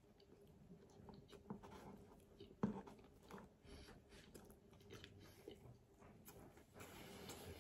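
Faint chewing of a mouthful of pizza: soft, scattered mouth clicks and crackles, with one sharper click about two and a half seconds in.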